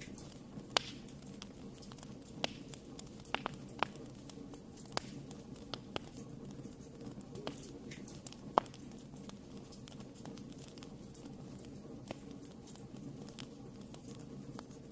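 Wood fire burning in a fireplace: a steady low rumble of flames with scattered sharp crackles and pops from the burning wood, irregularly spaced, a few of them much louder than the rest.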